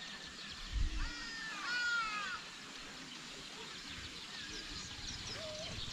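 Birds calling: a run of pitched, downward-bending calls from about one to two and a half seconds in, with faint high chirps of other birds throughout and a lower short call near the end.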